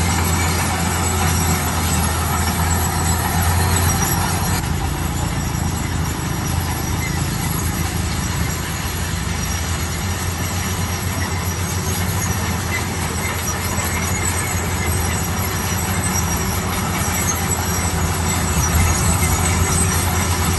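Heavy diesel road-construction machinery running steadily, a deep engine hum under a constant mechanical clatter and grinding.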